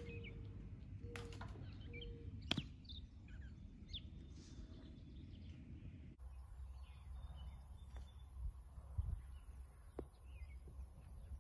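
Faint birds chirping now and then over steady low outdoor background noise, with one sharp knock about two and a half seconds in.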